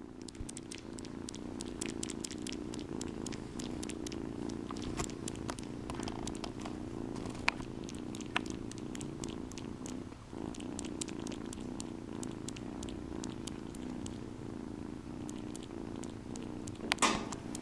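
Kitten purring steadily while kneading a blanket, with a short break about ten seconds in. Light scattered clicks run through it, and a louder brief scratchy burst comes near the end.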